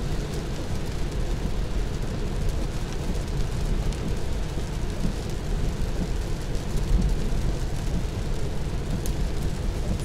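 Tesla Model 3 driving on a wet road in the rain: a steady low rumble of tyre and road noise with the hiss of rain.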